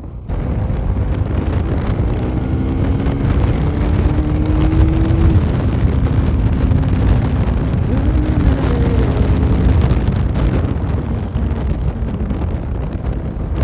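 Bajaj Pulsar NS200's single-cylinder engine running under way, its pitch climbing over the first few seconds and then falling back, under heavy wind rumble on the microphone.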